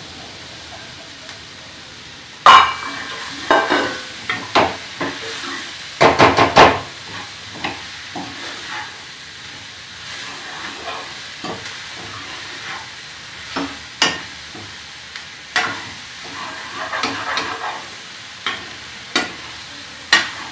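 Okra frying in a steel pan with onion-tomato masala, sizzling steadily while a spoon stirs it and clatters against the pan. The loudest knocks come about two and a half seconds in, with a quick run of strikes around six seconds.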